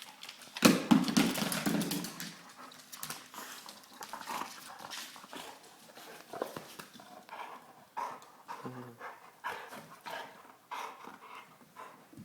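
A pet dog close to the microphone, making small sounds as it moves about: a louder burst lasting about a second near the start, then many short clicks and brief squeaky bits.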